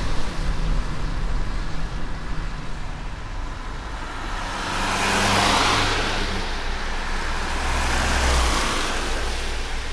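Car driving on a wet road in light rain: steady tyre and road noise over a low engine hum, with two swells of hiss about five and eight seconds in.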